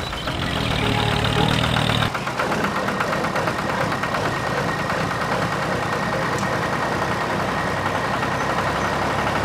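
A small tractor engine or motor running steadily with a fast, even chugging rhythm, whose sound changes abruptly about two seconds in.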